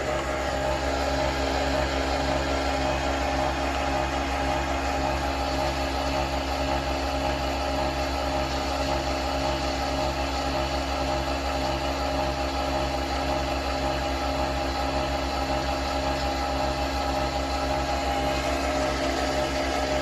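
Nespresso Vertuo Next coffee machine running through a brew: a steady motor hum with a regular pulsing about one and a half times a second underneath.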